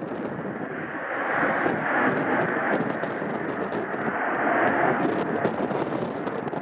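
Jet airliner engine noise as an aircraft passes, a broad rushing sound that swells about a second in, holds, and eases slightly near the end.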